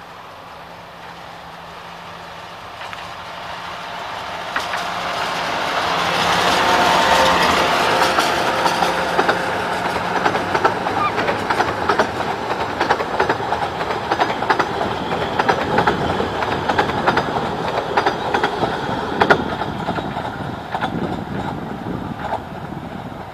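TMA Engineering diesel-hydraulic locomotive ICL.11 'Douglas Ferreira' of the 15-inch gauge Ravenglass & Eskdale Railway approaching and passing with its engine running, growing louder until about seven seconds in. Its train of open passenger coaches then rolls by, with irregular clicks of the wheels over the rail joints that fade near the end.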